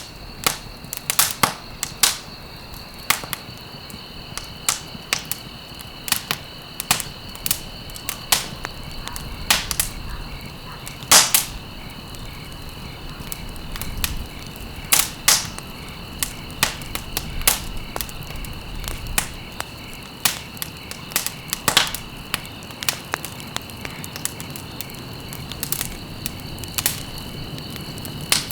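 Campfire crackling, with irregular sharp pops, a few of them louder, over a soft hiss. A steady high-pitched tone runs underneath.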